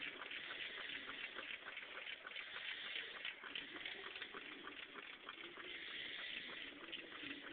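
Homemade paint-can Stirling engine running, its moving parts giving a rapid, irregular ticking rattle over a steady hiss from the Bunsen burner flame heating it.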